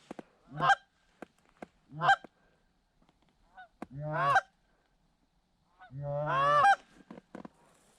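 Canada goose honks, close and loud: four separate honks with quiet gaps between, the last one longer with its pitch rising and falling, about six seconds in.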